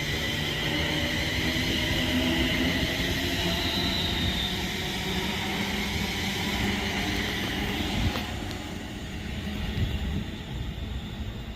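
A train moving at a station platform: a steady high-pitched whine over a low rumble, fading away after about eight seconds, with a single sharp click around then.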